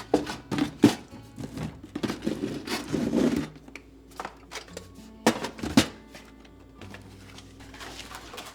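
Kitchen containers and utensils being handled and set down: a run of knocks, a stretch of rattling clatter, then two sharp knocks past the middle, over soft background music.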